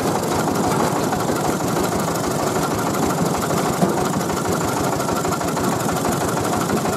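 Tiger 24 PK diesel engine of a three-wheeled mobile rice mill running steadily, with a fast, even beat.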